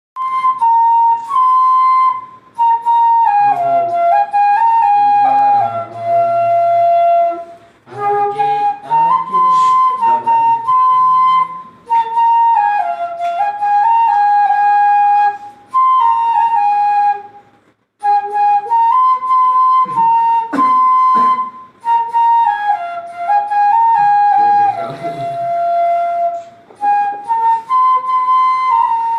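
Bansuri bamboo flute played solo: a slow, melodious line moving in steps and held notes, in phrases with short breath pauses, one longer pause about two-thirds of the way through.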